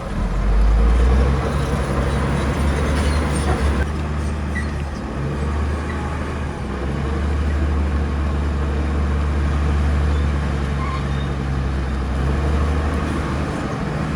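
Heavy diesel engine of earthmoving machinery running steadily, with a deep low engine note and a noisy mechanical clatter over it.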